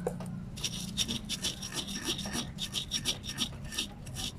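Pestle grinding spices and salt into a paste in a cobek mortar: quick, gritty rubbing strokes, several a second, starting about half a second in.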